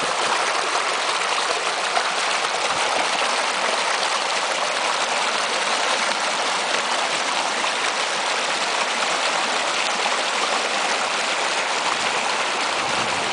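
Small mountain stream rushing and splashing steadily over rocks into plunge pools, a continuous even hiss of moving water.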